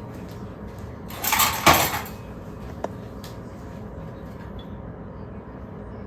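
A short clatter and knock of kitchen things being handled, about a second in, then a single small click, over a steady low background noise.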